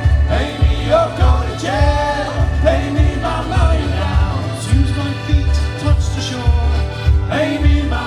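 Cornish sea-shanty group singing live with band accompaniment over a steady bass beat, the men's voices in chorus.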